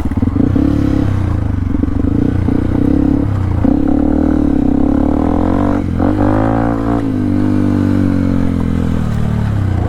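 Yamaha WR155's single-cylinder four-stroke engine running at low speed under the rider, the revs rising and falling with the throttle, with one rev swell about six seconds in.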